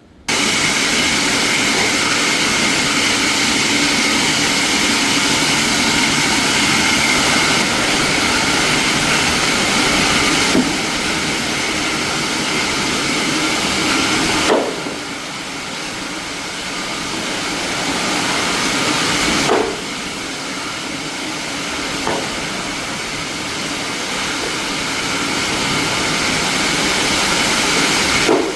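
Plastic-processing factory machinery running: a loud, steady mechanical noise with a hiss and a hum, changing level abruptly several times.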